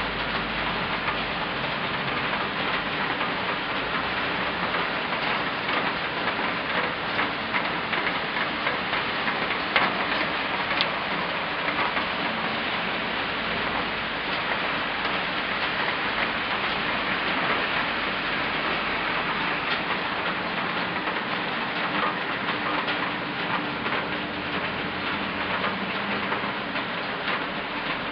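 Steady rain falling, many drops striking at once in a dense, even patter, with one slightly sharper tap about ten seconds in.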